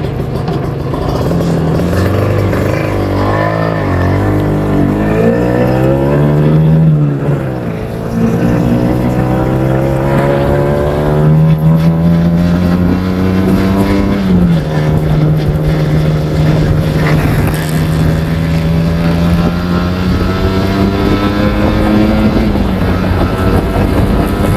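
Kawasaki Ninja R 150's two-stroke single-cylinder engine running loudly under load. Its pitch climbs slowly and drops sharply about 7 and 14 seconds in, as when the bike accelerates through the gears, then holds fairly steady.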